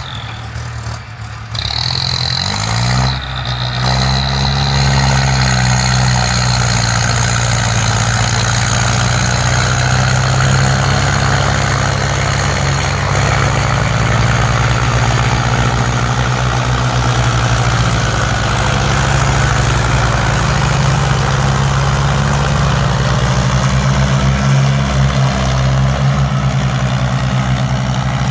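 Ford farm tractor's diesel engine revving up about two to three seconds in, then running steadily at high revs under load while pushing and grading soil.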